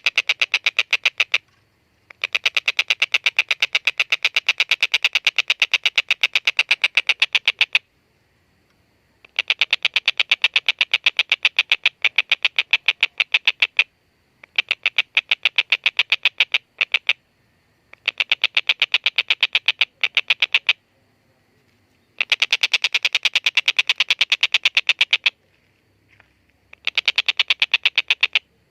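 Collared kingfisher (tengkek buto) calling in long rapid series of harsh, chattering notes. About seven bouts, each a few seconds long, separated by short pauses.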